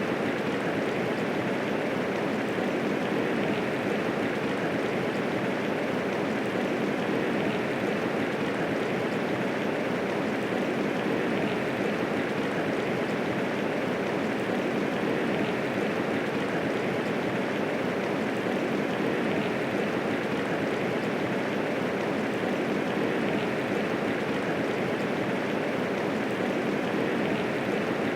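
Steady medium rainfall, an even hiss of falling rain without thunder.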